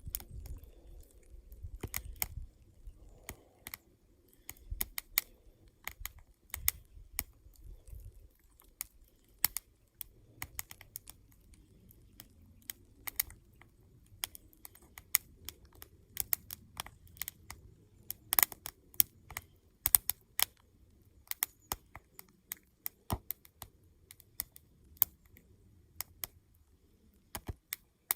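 Wood campfire crackling: irregular sharp snaps and pops, a few louder ones, over a faint low rumble.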